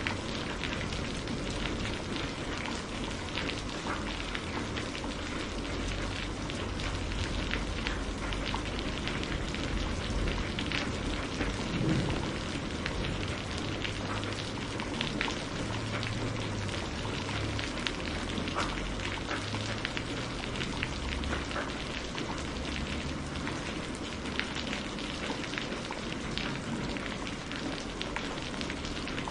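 Steady rain falling, with many small drops pattering on a surface over a low rumble.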